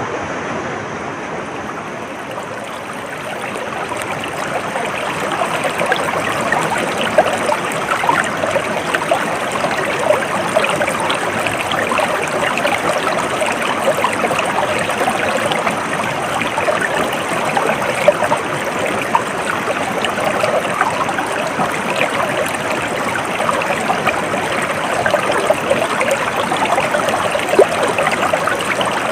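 Stream water flowing and babbling steadily, a constant wash dotted with small splashes. It grows a little louder about four seconds in.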